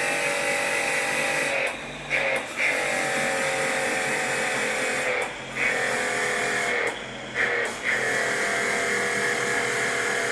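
Handheld electric power tool motor running with a steady whine, stopping for a moment and starting again several times, about five short breaks in all.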